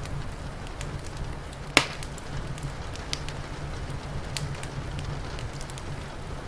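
Wood fire crackling with scattered pops and one loud snap a little under two seconds in, over a steady low rumble and the even hiss of rain.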